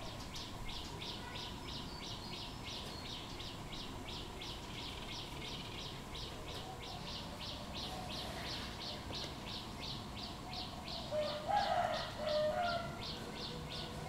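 Birds calling: a high, thin note repeated evenly about three to four times a second, with a few louder, lower call notes from another bird near the end.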